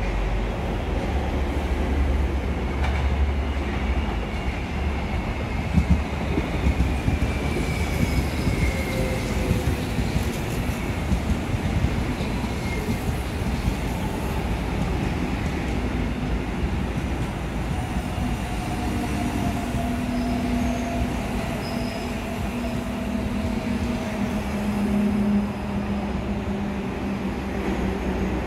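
Electric commuter train running along the track past the platform, with a continuous rail rumble. High thin wheel squeals glide downward for a few seconds. From about two-thirds of the way in, a steady low electric motor hum joins.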